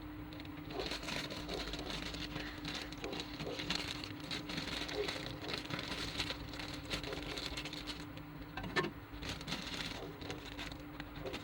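Irregular light clicks and rustling of small handling noises over a steady hum, with a sharper click about nine seconds in.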